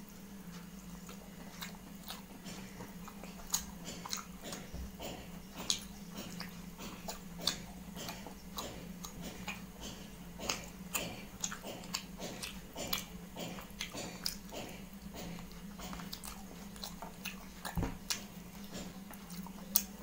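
A person chewing and biting food close to the microphone, with wet mouth clicks repeating about two to three times a second over a steady low hum.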